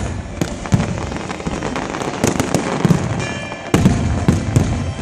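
Fireworks bursting in quick succession: a dense string of sharp bangs and deep booms over continuous crackling.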